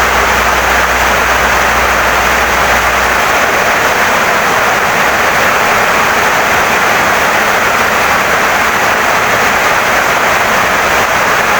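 Heavy rain pouring down steadily on a wooden house, a dense even hiss. A low hum underneath stops about three seconds in.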